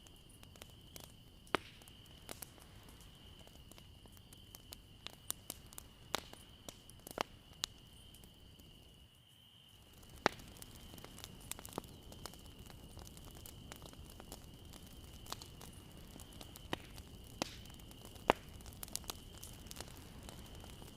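Bonfire burning: irregular sharp crackles and pops from the burning wood over a low, steady rush, with a thin steady high tone underneath.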